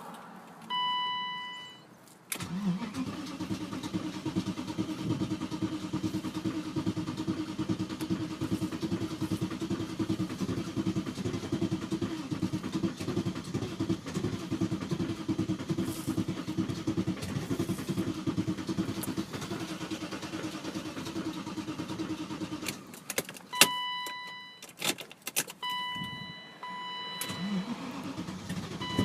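A dashboard warning chime beeps once. Then a starter motor cranks a cold engine steadily for about twenty seconds without it catching. The cranking stops and the chime beeps several more times near the end.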